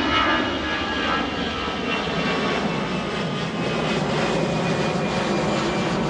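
Jet engines of an Airbus A320 airliner climbing out just after takeoff: a steady, loud jet rumble.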